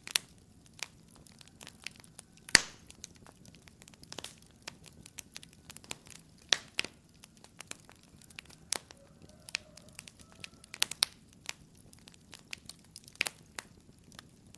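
Fire crackling in a fireplace: irregular sharp snaps and pops over a faint low hiss, with one louder pop about two and a half seconds in.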